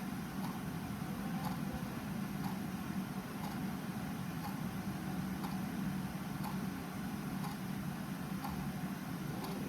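Clock ticking steadily, about once a second, over a steady low hum.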